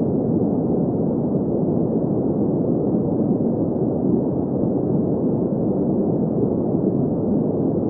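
Steady green noise: an even, unchanging hiss with its weight in the low-middle range, rolled off above about 2 kHz.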